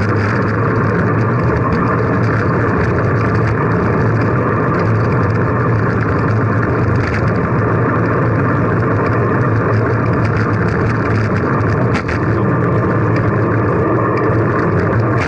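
Steady rush of wind and road noise on a camera moving along with a bicycle ride, with a brief click about twelve seconds in.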